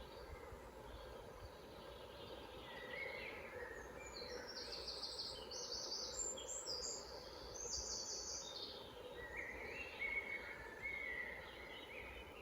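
Forest songbirds singing. A run of high, rapid trilled phrases comes in the middle, with lower chirping phrases before and after, over steady low background noise.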